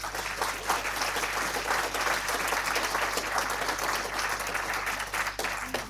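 Crowd applause: many people clapping densely together, thinning to a few scattered claps near the end.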